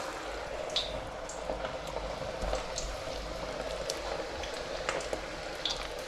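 Hot oil at about 160 °C bubbling and crackling steadily around bhaji-coated chicken pieces just lowered in to deep-fry, with scattered small pops.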